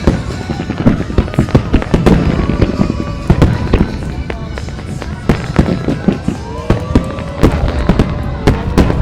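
Aerial fireworks bursting in rapid succession, many sharp bangs a second without a break, with music playing underneath.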